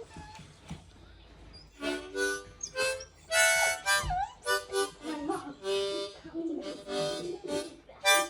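Harmonica played in short repeated notes and chords, starting about two seconds in, with a puppy howling along in wavering, gliding cries.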